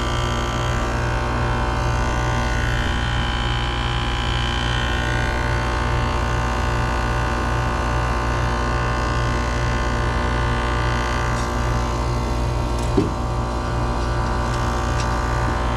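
Central air conditioner outdoor unit running: a steady electrical hum with several thin, high whining tones above it. Its condenser fan motor is running very hot. One short knock about 13 seconds in.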